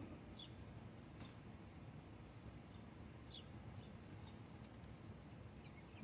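Near-silent backyard ambience with a low steady background hiss and a few brief, high bird chirps, one near the start, one about a second in and one a little past three seconds.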